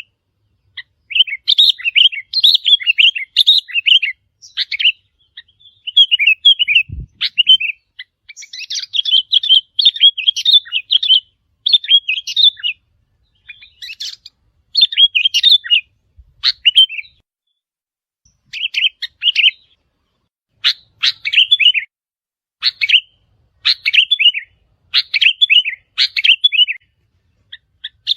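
Sooty-headed bulbul song: quick, chirping phrases of a second or two, repeated over and over with short pauses between.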